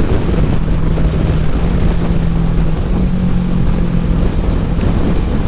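Kawasaki Ninja 650 parallel-twin engine running at a steady cruise, under heavy wind noise buffeting the microphone.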